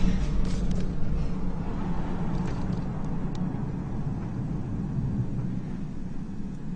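Low, rolling rumble of a massive oil tank explosion, slowly fading.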